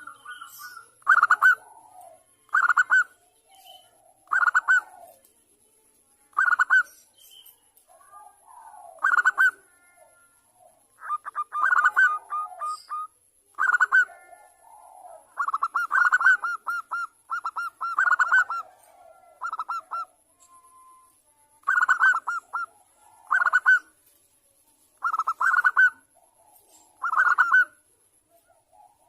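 Zebra dove (perkutut) calling in short, fast staccato coo trills, one every second and a half to two seconds, with a few longer runs in the middle. It is a female's call, used as a lure to draw a male into calling.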